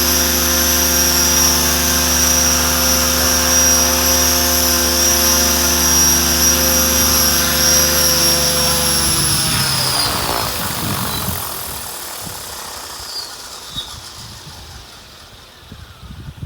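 Mikado Logo 600 electric RC helicopter's motor and rotor running steadily with a high whine, then spooling down from about nine seconds in, the pitch falling and the sound fading as the rotor slows to a stop.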